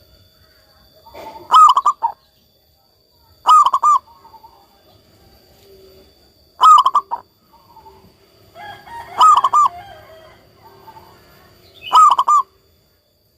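Zebra dove (perkutut) singing its quick, stuttering coo: five loud phrases of a few rapid notes each, roughly every two and a half to three seconds. Fainter bird calls come between the phrases, and a faint steady high tone runs underneath.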